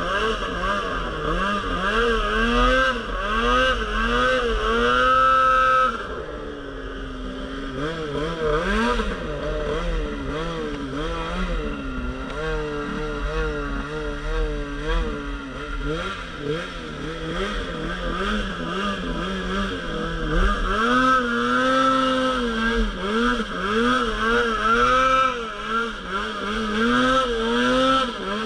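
Polaris RMK Pro 800 snowmobile's two-stroke twin revving up and down over and over as the throttle is worked through deep snow. It drops to a lower, steadier note for a few seconds about six seconds in, then climbs and swings again.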